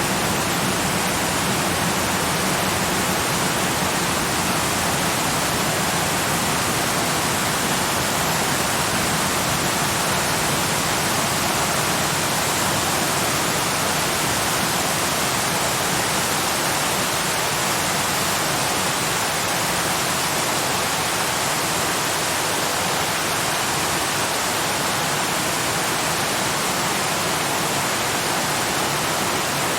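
Waterfall: water rushing down in a steady, unbroken roar of noise that does not change.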